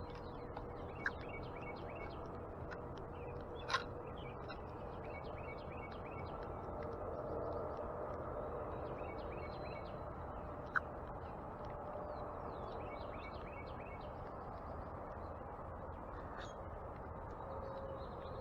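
Wild birds calling and chirping: short runs of quick repeated notes come back every few seconds, with other scattered chirps, over steady outdoor background noise. Three sharp clicks stand out, about one, four and eleven seconds in.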